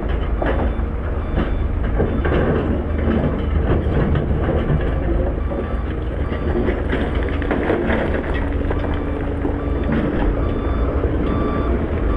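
Heavy diesel earthmoving machinery working: a steady low engine rumble with scattered knocks and clanks.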